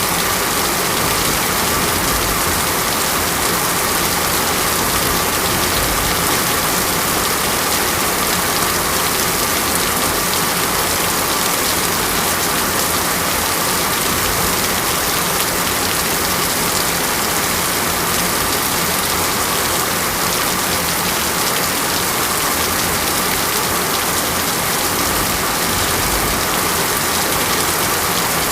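Steady heavy rain falling, an even dense hiss that holds at one level throughout.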